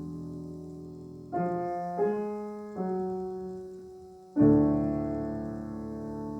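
Solo piano playing slow, sustained chords: a held chord fades, three chords follow in quick succession, then a louder full chord is struck about four seconds in and left to ring.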